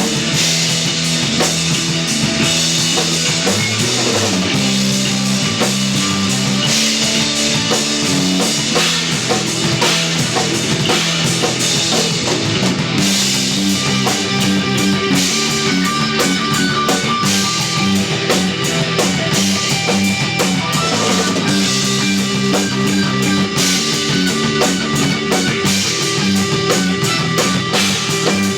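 Live instrumental progressive/post-rock played by an electric bass, electric guitar and drum kit trio, with continuous busy drumming and a bass line moving in steady steps.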